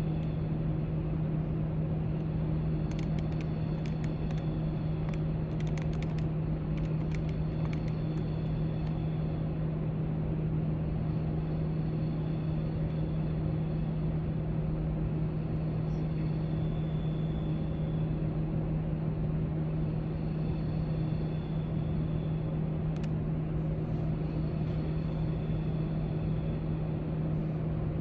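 Steady library room tone: a constant low droning hum, like ventilation or air handling, with a faint hiss. Scattered faint clicks and taps are heard in clusters, early on and again near the end.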